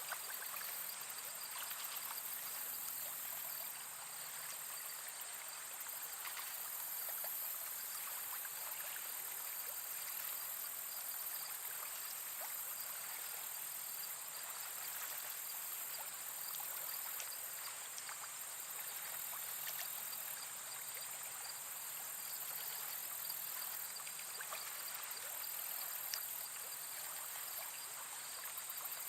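Steady nature ambience: insects chirring in a high, even band, with faint trickling water and scattered small ticks.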